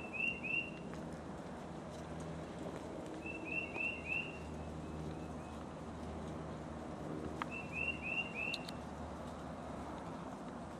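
A songbird calling three times, each time a quick run of three or four slurred whistled notes, over a steady low background noise.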